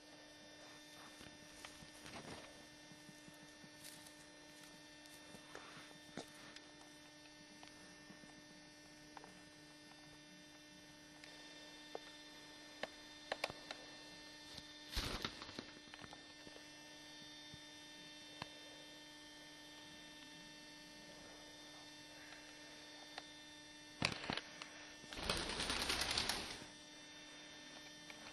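Cockatiels nibbling and picking at a blanket: scattered small clicks and rustles over a steady electrical hum, with a short loud rustle about 15 s in and a longer rush of rustling near the end.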